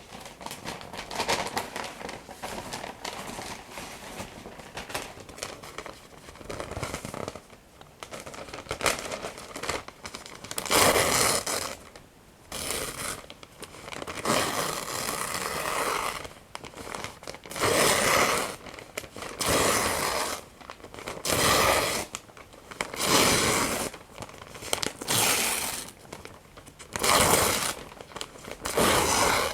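Paper being handled close to the microphone: crinkling and crumpling at first, then from about ten seconds in a run of separate tearing rips, each about a second long, one every second or two.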